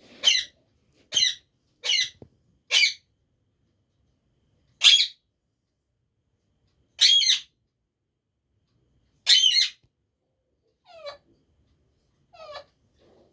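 Pet parrot giving a series of short, high-pitched calls, about seven loud ones a second or two apart, then two fainter calls near the end.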